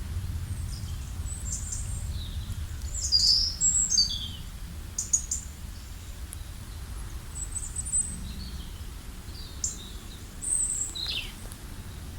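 Small birds chirping and twittering in short, high, scattered calls, several overlapping, loudest a few seconds in, over a steady low rumble.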